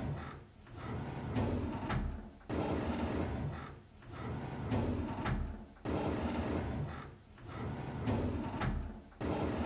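A drawer sliding open on its runners, a rumbling slide with a sharp knock at the start of each pull. It repeats about every three and a half seconds as a loop, three times.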